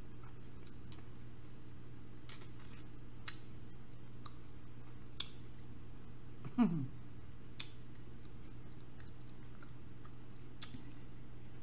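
Faint mouth sounds of a person eating barbecue wings: scattered small clicks and smacks over a steady low hum, with a short falling "mmm" about six and a half seconds in.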